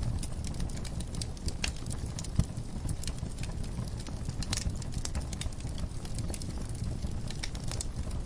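Wood fire burning in a fireplace: a steady low rumble of flames with irregular sharp crackles and pops from the burning logs, one louder pop a little over two seconds in.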